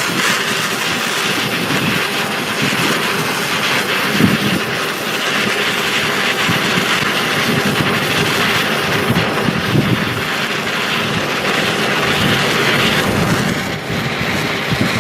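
Steady rushing noise, with wind gusting unevenly on the microphone.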